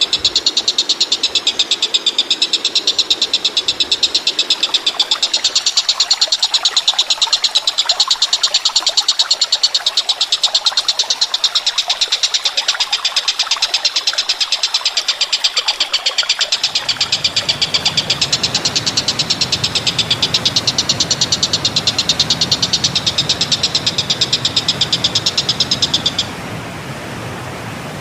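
A loud, rapid, evenly pulsed animal trill of the kind used as bird-training song material, cutting off suddenly near the end. A steady rushing noise comes in about two-thirds of the way through and carries on after the trill stops.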